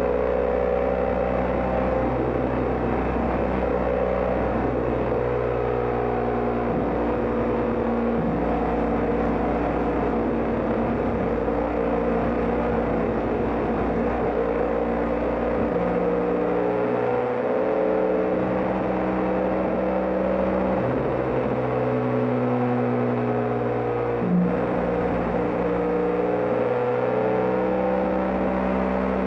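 BMW GS Adventure motorcycle riding at road speed: steady engine and wind noise whose pitch shifts every few seconds, with a single short knock near the end.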